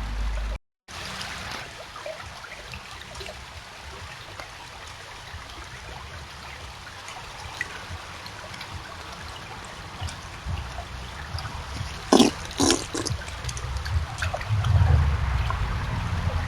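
Beaver at the water's edge: water trickling steadily with small wet clicks and drips, then two sharp wet smacks about twelve seconds in and a low rumbling sound near the end.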